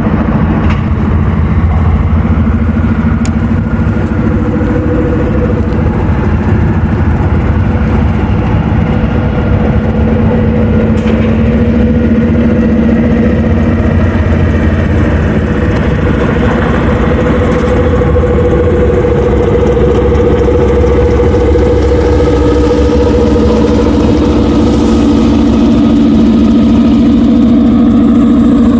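Diesel locomotive engine running close by: a loud, steady drone with humming tones, growing a little louder toward the end.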